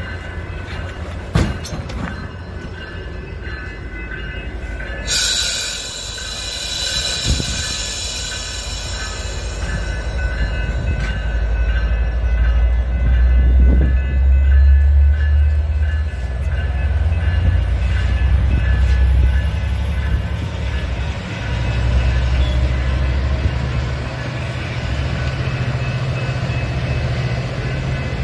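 Metra bi-level commuter train pulling out of the station: a knock near the start, a burst of air hissing about five seconds in, then the low rumble of the coaches rolling past, which builds from about ten seconds on.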